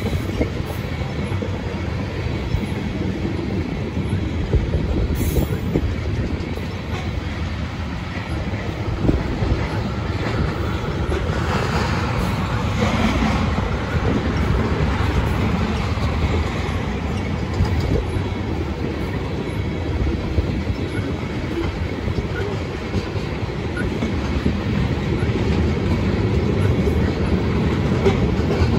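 Tank cars of a unit oil train rolling past close by: a steady rumble of steel wheels on rail, with irregular clicks and clacks from the wheels.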